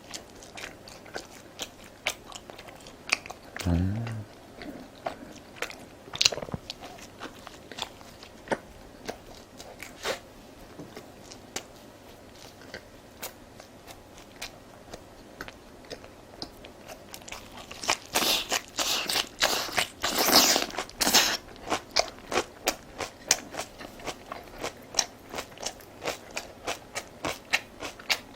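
Close-up chewing and biting of food, with many short wet mouth clicks and a brief low hum from the eater about four seconds in. A louder run of crunching comes about two-thirds of the way through.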